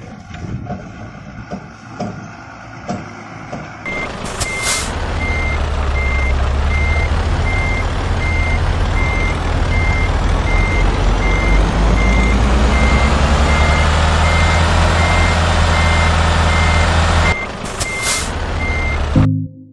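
Truck reversing alarm beeping about twice a second over a loud running engine, with short hisses near the start and end of the beeping. Before that come a few seconds of scattered clicks and knocks.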